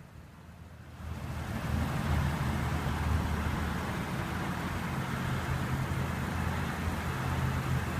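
A motor vehicle engine running steadily, starting about a second in: a low hum with some broader noise above it.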